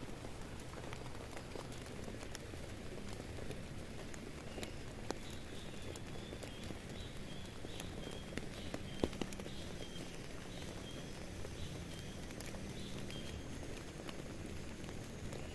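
Steady rain falling on a tent, with scattered sharp drops tapping on the fabric, one louder about nine seconds in. A faint run of short high animal chirps sounds through the middle.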